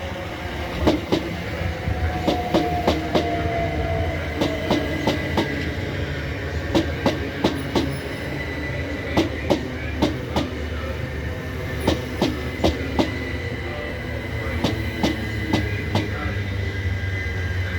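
A train passing at steady speed, its wheels clicking over rail joints in regular pairs as each bogie crosses, over a low rumble and a faint steady whine.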